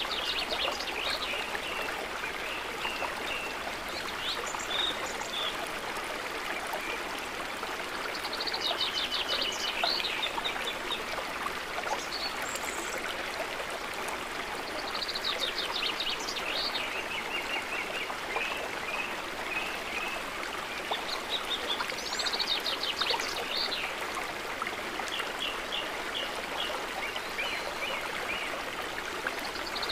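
Water trickling and babbling steadily, with a rapid high trilling call that comes back about every seven seconds and scattered short high chirps.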